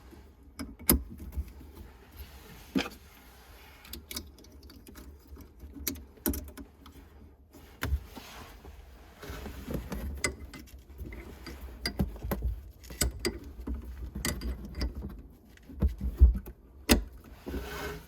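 Irregular clicks, taps and knocks of tools and metal fittings being handled, with a couple of louder knocks near the end.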